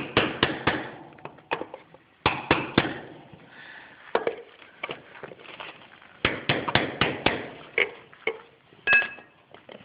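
Hammer tapping a caulking iron, packing poured lead down into a cast-iron hub joint: sharp metallic taps in quick groups of two to five, with short pauses between.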